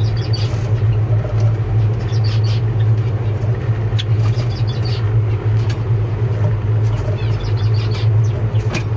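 Small cage birds chirping in short, scattered calls over a loud, steady low hum, which is the loudest sound.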